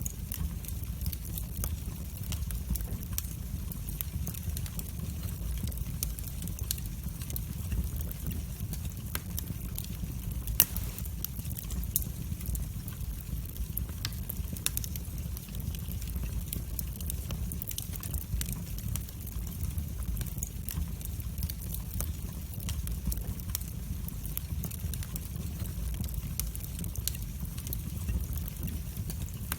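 Wood fire burning in a fireplace: a steady low rumble of flames with frequent sharp crackles and pops, one louder pop about ten seconds in.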